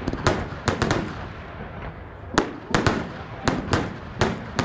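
Fireworks going off: a run of about a dozen sharp bangs in irregular clusters of two or three, each with a short echoing tail.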